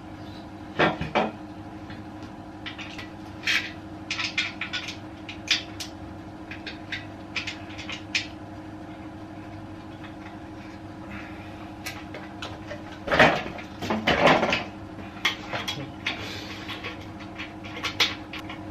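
Scattered clicks, knocks and clatters of bolts and metal parts being handled while refitting an air compressor. Louder clatters come about a second in and again between about thirteen and fifteen seconds in, over a steady hum.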